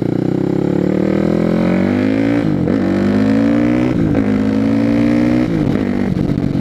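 Single-cylinder four-stroke engine of a 2006 Yamaha WR450F supermoto accelerating hard through the gears: the revs climb, dip at each upshift, and climb again, three shifts in all. It is loud, running through an FMF slip-on exhaust whose packing is blown out and due for a repack.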